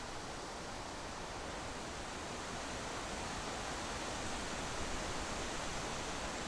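Steady rushing wind and road noise from a moving vehicle, an even hiss with no distinct events.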